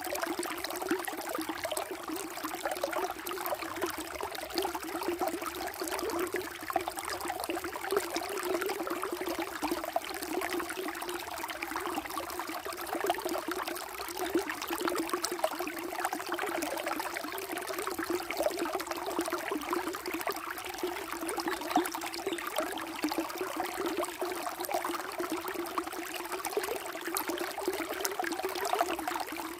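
Water running and trickling steadily, a small stream or flow splashing with constant small gurgles.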